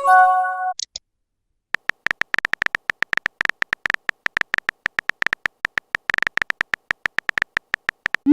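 Phone texting sound effects. A short electronic notification chime of several steady tones comes at the start, followed by rapid, irregular keyboard-tap clicks for several seconds, like a message being typed. A quick rising swoosh comes at the very end.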